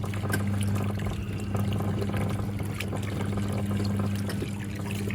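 National NA9450PN compact pulsator washing machine washing a load: water churning and pouring in the tub over a steady motor hum.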